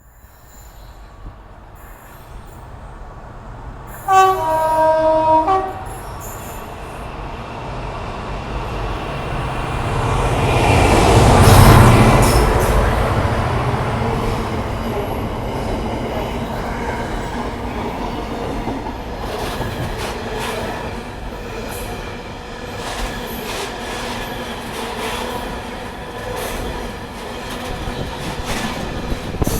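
A diesel train sounds a two-note horn for about a second and a half, then rumbles past, loudest about twelve seconds in, before settling into a steady engine rumble with the clicking and squeal of wheels on rails.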